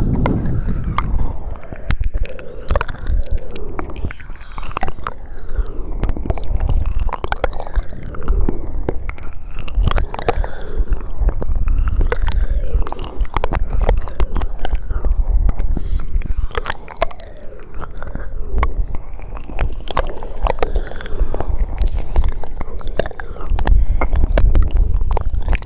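Close-miked ASMR mouth sounds: a steady stream of wet clicks, smacks and pops from lips and tongue, with some gurgling.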